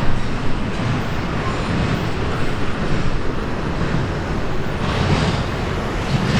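Steady rumble and rolling noise of an intermodal container train's cars passing on the rails.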